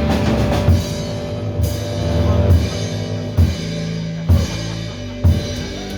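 Live rock band playing: held guitar and bass notes under drum-kit hits landing about once a second.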